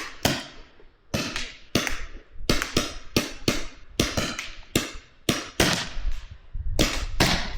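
Paintball markers firing a rapid, irregular string of sharp pops, about two to three shots a second, some close together, as players exchange fire.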